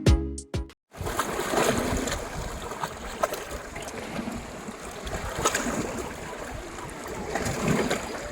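Lake water lapping and sloshing, with small splashes and clicks. A music track cuts off about a second in.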